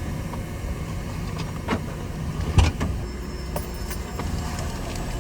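Pickup truck's doors and cab interior being handled: a few sharp knocks and clicks over a steady low rumble, the loudest knock about two and a half seconds in.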